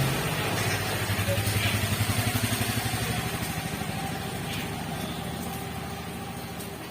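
A vehicle engine running with a low, rapid pulse, fading steadily as it moves away.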